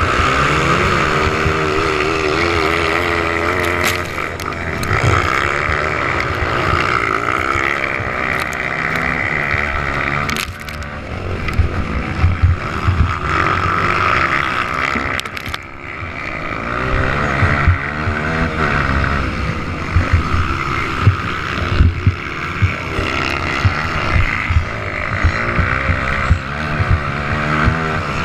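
Motocross motorcycle engines running hard around a dirt track, their pitch rising and falling repeatedly as riders open and close the throttle, with sharp peaks as bikes pass close.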